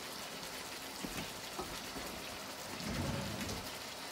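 Chicken pieces and tomatoes frying in oil and spices in a wok, a steady sizzle with a few faint ticks. A brief low rumble comes about three seconds in.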